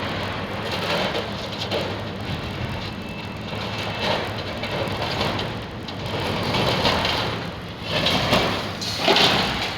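Heavy demolition machinery tearing down a building: an engine running steadily under repeated grinding, scraping swells of debris and metal, with several louder surges in the second half.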